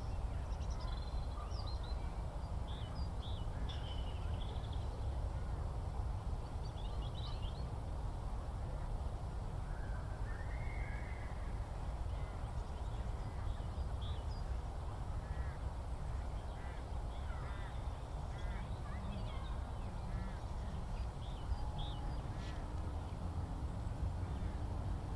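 Open-countryside field ambience: a steady low rumble with scattered bird calls and chirps throughout.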